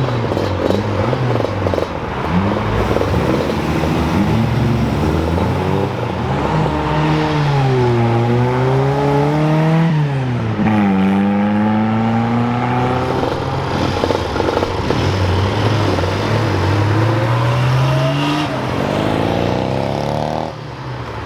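Car engine revving as the car accelerates away: its note climbs, drops sharply at a gear change about ten seconds in, then climbs again. Other car engines run underneath throughout.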